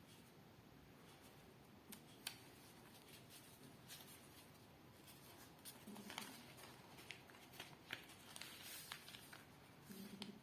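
Faint crackling and rustling of a sheet of paper being folded and creased by hand, with scattered soft ticks that come more often in the second half.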